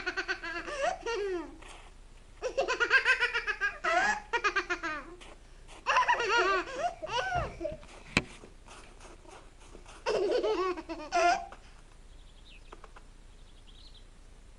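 A small child laughing hard in four bouts of quick, high-pitched giggles.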